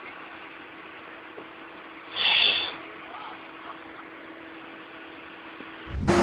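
A vehicle engine running steadily at a low level, with a brief louder noise about two seconds in. Just before the end a much louder, steady engine-like sound cuts in.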